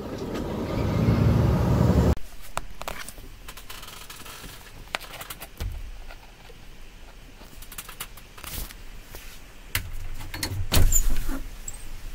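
Low vehicle rumble that cuts off abruptly about two seconds in, followed by scattered clicks and knocks of things being handled, with a louder bout of knocking near the end.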